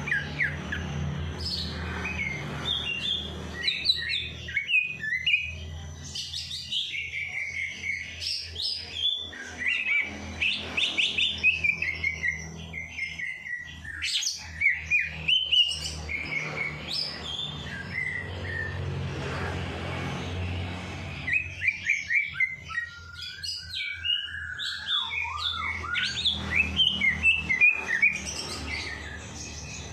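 Songbirds singing in fast, dense runs of short high chirps and trills, several phrases overlapping. A steady low hum runs underneath.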